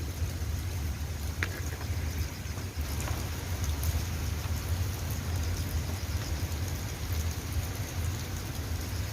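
Steady rain falling, with scattered fine drop ticks over an even hiss and a constant low rumble underneath.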